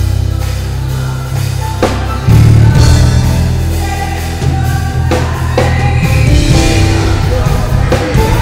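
Live band playing loudly, with electric bass holding long low notes that change every second or two under drums and cymbals.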